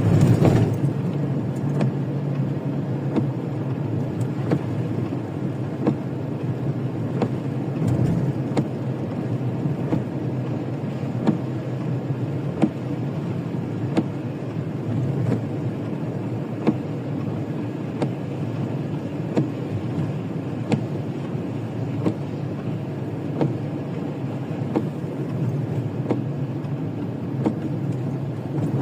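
Steady engine and road rumble of a moving vehicle, with light knocks every second or so.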